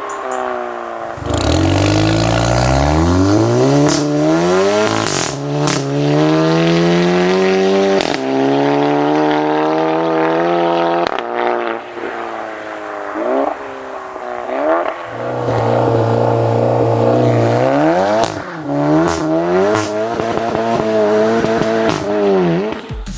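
VW Golf 7 GTI's turbocharged 2.0-litre four-cylinder through a Bull-X EGO-X valve-controlled exhaust, pulling hard with the revs climbing and dropping back at several gear changes. There are a few sharp cracks around the shifts, then throttle blips and more revving near the end.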